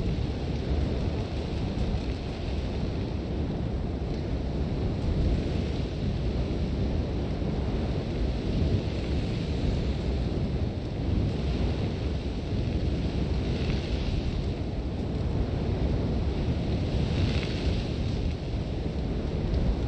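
Sandstorm wind blowing hard with a deep, steady rumble, and sand hissing in gusts that swell twice in the second half.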